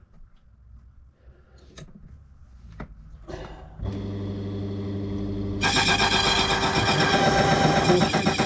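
A few light handling clicks, then about four seconds in a key-cutting machine's motor switches on and runs with a steady hum. About a second and a half later the cutter bites into the key blank, adding a loud, high-pitched cutting whine as a lever step is cut into a safe key.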